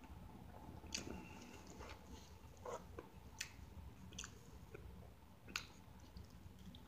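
Faint chewing and biting of a soft bacon, egg and cheese biscuit sandwich: quiet mouth smacks with several scattered sharp clicks, over a low steady hum.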